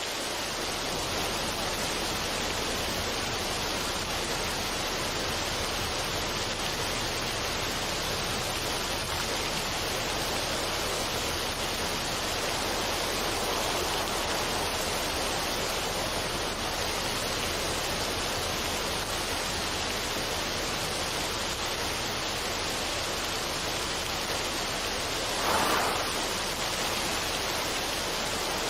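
Steady rushing noise with no melody or beat, like falling water or soft pink noise, with a brief louder swell near the end.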